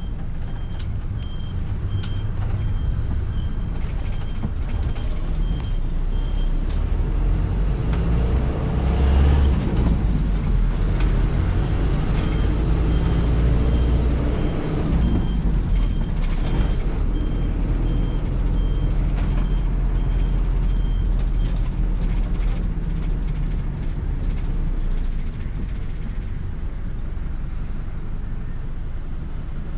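City bus running, heard from inside the cabin: a steady engine drone, which swells in the middle of the stretch. A high electronic beep repeats about twice a second for the first six seconds, and again from about twelve to twenty-one seconds in.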